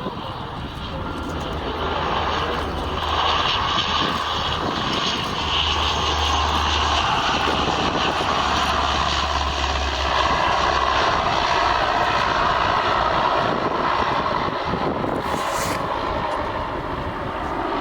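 Airliner engines running as an aircraft passes on the runway. The steady rush swells about two seconds in, holds, and fades near the end.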